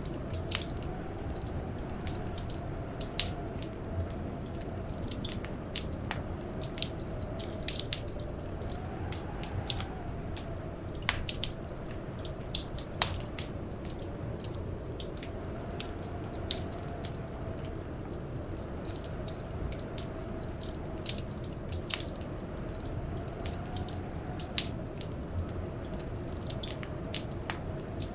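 Wood fire crackling, with frequent irregular sharp pops over a steady background rush and a faint, slowly wavering hum.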